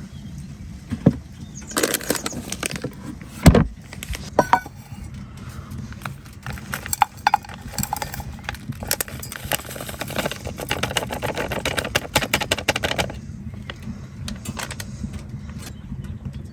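Handling of objects: scattered knocks and clicks, one heavy knock about three and a half seconds in, then a stretch of quick rattling and clinking that stops about thirteen seconds in.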